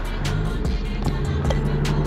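A beat with steady hi-hat strikes plays over the 2015 Infiniti Q50's V6 with an aftermarket exhaust. The exhaust comes in about a quarter second in and rises slowly in pitch as the car accelerates.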